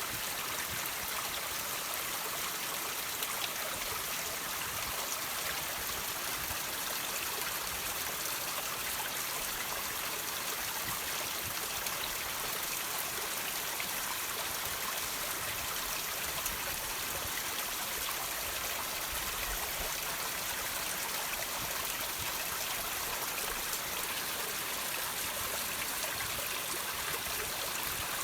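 Water dripping and trickling off rocks: a steady rush of running water dotted with many small drips.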